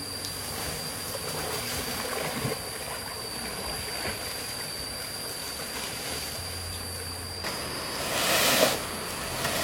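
Steady rushing of stream water under a thin, steady high-pitched tone, with a louder surge of noise about eight seconds in.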